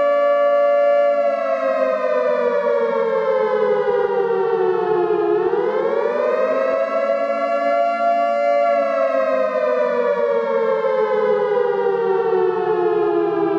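Nuclear alarm siren sounding. Its pitch holds at first, then slides slowly down, swings back up about halfway through, holds briefly, and slides down again near the end.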